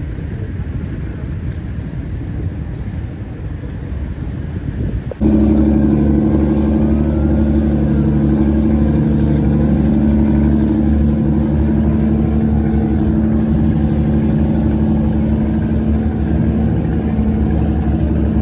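Wind rumbling on the microphone, then about five seconds in a sudden cut to a steady low engine drone with a strong hum, as of a passenger ferry's engine running.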